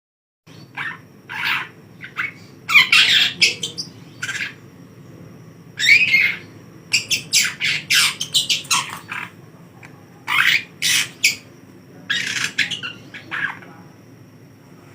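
Young long-tailed shrike giving harsh, scratchy squawking calls in short irregular bursts and clusters, as it reacts to being teased by a hand.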